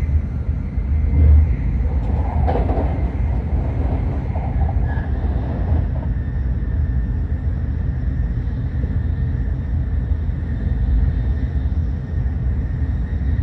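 Tokaido Shinkansen train running at speed, heard from inside the passenger car: a steady low rumble, with a brief louder swell about a second in.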